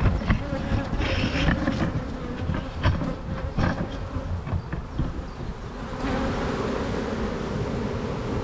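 Agitated honey bees buzzing in a steady hum around the beekeeper, a colony that is defensive and unhappy after being opened. Several short knocks and rustles sound over the buzzing in the first six seconds.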